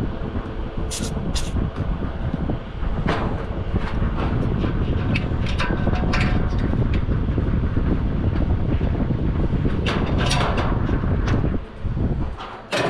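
Clicks and knocks of hand tools on a condenser fan motor and its housing, over a steady low rumble that drops away briefly near the end.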